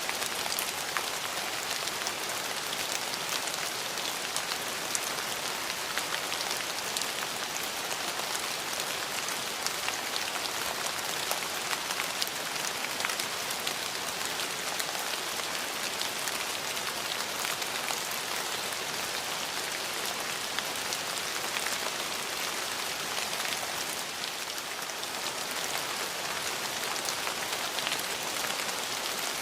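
Steady rain falling on hard surfaces, an even hiss full of close, individual drop hits.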